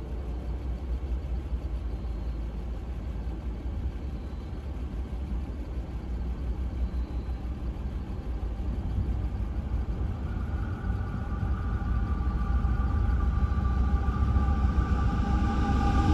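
Low rumble of an approaching diesel freight train, growing steadily louder; about ten seconds in a steady higher tone joins and swells as the locomotive nears.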